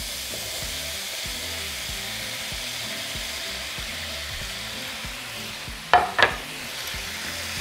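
Potato wedges sizzling steadily in hot butter and oil in a frying pan as they are pushed in with a spatula. Two short, loud knocks come about six seconds in.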